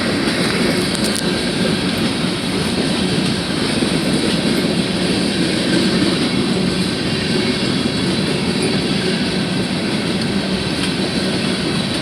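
Railroad cars rolling past on the rails: a loud, steady rumble of wheels on track with no break.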